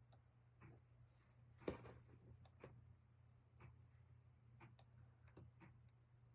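Near silence over a steady low hum, with a clock ticking faintly about once a second. One louder click or handling knock comes about two seconds in.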